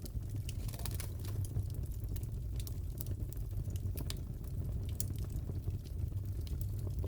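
Wood fire crackling in a fireplace: scattered sharp pops and crackles, several a second, over a steady low rumble.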